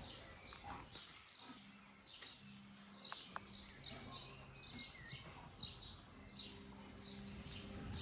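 Faint songbirds chirping on and off in the surrounding trees, over a low steady hum.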